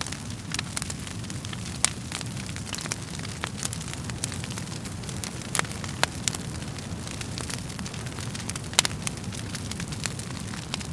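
Wood fire burning in a fireplace: irregular sharp crackles and pops over a steady low rumble of the flames, with two louder pops, one about two seconds in and one late on.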